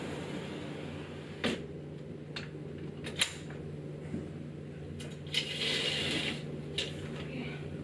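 Small objects being handled in a small room: a handful of sharp clicks and knocks, and about a second of rustling a little past the middle, over a steady low room hum.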